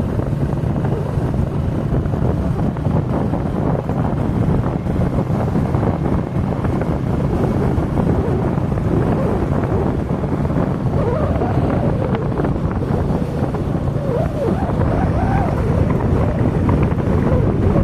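A vehicle engine running steadily, heard while moving along a road, with wind rushing over the microphone.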